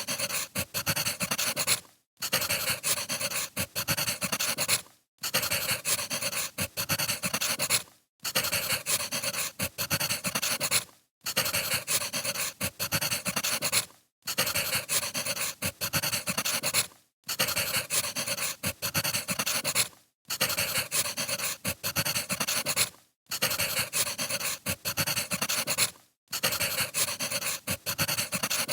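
Crackling wood fire: dense small pops and crackles from a short recording looped about every three seconds, with a brief dropout between repeats.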